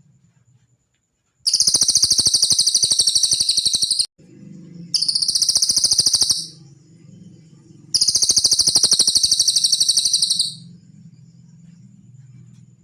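Cililin songbird singing three long, very rapid high-pitched trills of about one and a half to two and a half seconds each, with short pauses between them.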